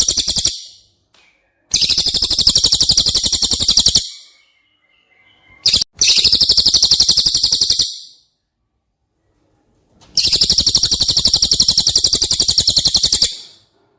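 Cililin bird song: loud, very rapid rattling trills, each lasting two to three seconds, repeated four times with short pauses between them, and a brief chirp just before the third trill.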